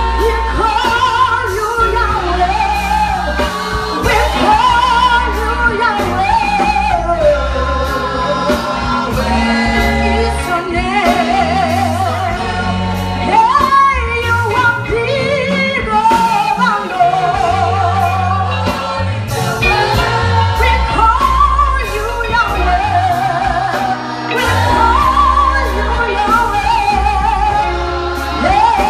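Gospel worship music: voices singing a praise song over a loud, sustained bass accompaniment.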